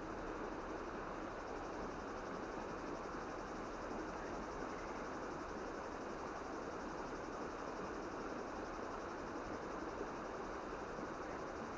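Steady outdoor ambience: an even rushing noise that does not change, with insects chirring faintly and high above it.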